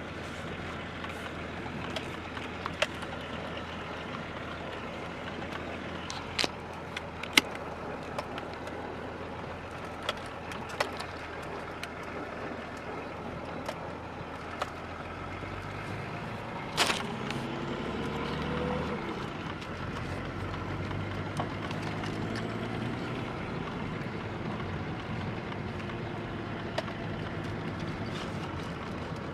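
BMW E34 525tds turbo-diesel engine running, freshly installed after an engine swap, with scattered sharp clicks. About 17 seconds in there is a loud click and a brief rise and fall in engine pitch, after which it runs a little louder and steadier.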